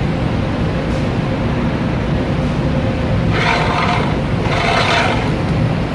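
Laser-table slat grinder running steadily with a low machine hum and a faint steady tone. Two short bursts of harsher scraping noise come about three and a half and five seconds in.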